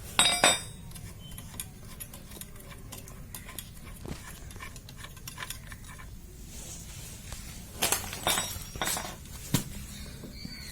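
Metal tools and small parts clinking and knocking as a scooter's CVT variator is taken apart: a loud ringing metallic clink just after the start, scattered light clicks, then a cluster of sharp clinks about eight to nine and a half seconds in.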